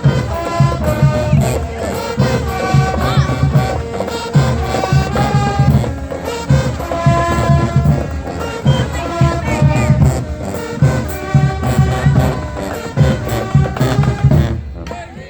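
High school marching band playing: brass holding stacked chords over a steady drum beat. The music breaks off briefly near the end.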